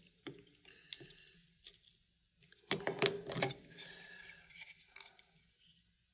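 Small parts of a computer power-supply fan being handled and taken apart by hand. There are scattered light clicks, a burst of louder clicks and clinks about three seconds in, then a short scraping rustle.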